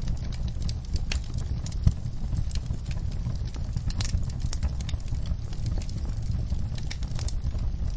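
Wood fire crackling in a fireplace: irregular sharp pops and snaps, a louder pop about two seconds in and another near the middle, over a steady low rumble.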